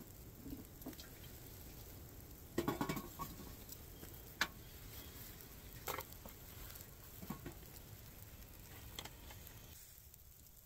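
Scattered light clicks and knocks over a faint steady hiss, with a short cluster of clinks about two and a half seconds in.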